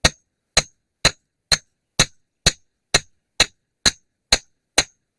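Steel T-post being driven into the ground with a mallet: evenly spaced metallic clangs, about two strikes a second, each ringing briefly.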